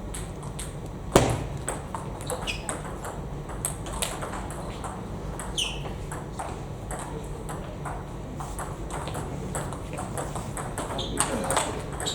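Table tennis balls being struck in play: a quick, irregular run of sharp clicks of ball on bat and table, the loudest about a second in, with a couple of short squeaks.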